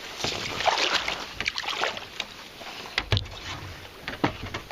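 Water splashing and sloshing around a kayak, irregular throughout, with two sharp knocks in the second half.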